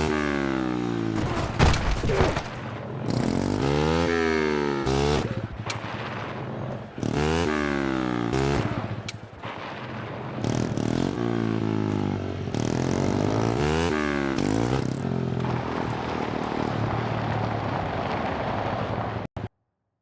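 Mini bike's small engine revving, its pitch rising and falling again and again, with a couple of sharp knocks about two seconds in. The sound cuts off suddenly near the end.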